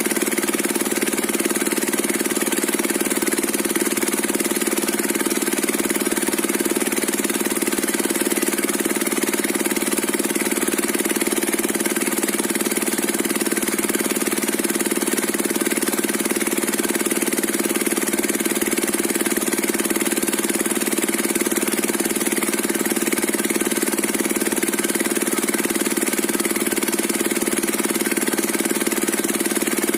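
Diesel engine driving a circular saw bench, running at a steady speed without change.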